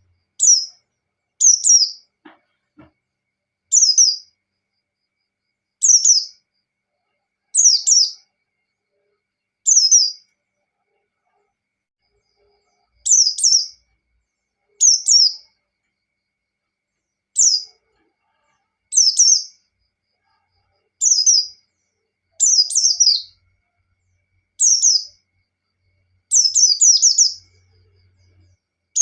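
Pleci (white-eye) singing: short, high, chirped phrases that fall in pitch, repeated about every two seconds with silent gaps between them. This is the ngalas style of pleci song.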